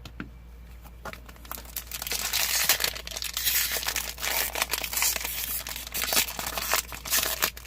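Foil Pokémon booster-pack wrapper crinkling and tearing as it is worked open by hand, starting about a second and a half in. The thin pack is hard to grip and pull apart, so the crinkling goes on in irregular bursts.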